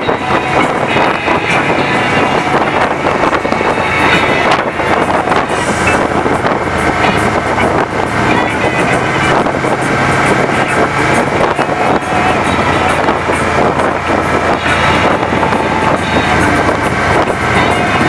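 Steady wind rushing over the microphone on a downhill ride, over a constant low drone, with no break throughout.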